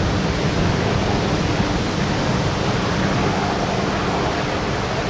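Steady rush of wind and ocean surf, with a low steady hum from a boat engine underneath.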